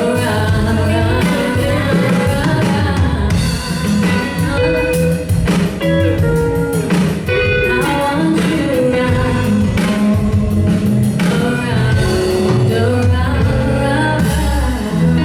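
Live band playing a song: a woman singing over guitar, bass guitar and a drum kit.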